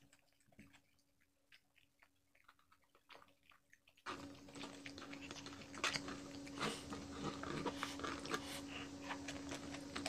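Close-up chewing and mouth sounds of someone eating crispy fried chicken and rice by hand, with soft clicks of fingers on the tray. Faint and sparse at first; about four seconds in it gets louder and busier, with a steady low hum coming in behind it.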